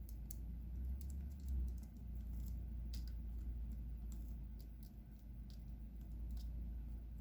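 Irregular small plastic clicks and taps of diamond painting: a drill pen picking up resin drills and pressing them onto the canvas, over a steady low hum.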